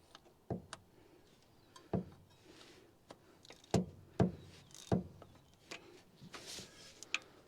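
Scattered metal clinks and knocks of a socket wrench working on a V8's spark plugs, about seven sharp ones spaced irregularly, with light rustling between them.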